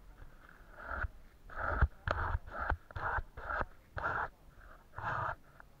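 Paintbrush working over paper in a quick series of short, scratchy strokes, about eight of them.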